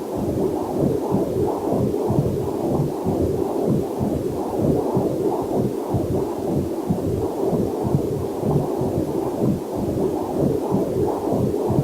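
Fetal heartbeat picked up by a fetal Doppler monitor: a fast whooshing pulse at about two to three beats a second, with a faint waterfall mixed in underneath.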